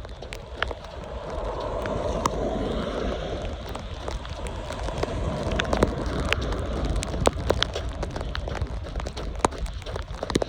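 Wind rumbling on the microphone, with scattered sharp ticks.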